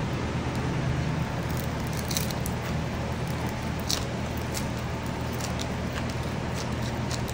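Crunching of crispy fried palabok noodles being bitten and chewed close to the microphone: a run of short, sharp crackles starting about a second and a half in, over a steady low hum.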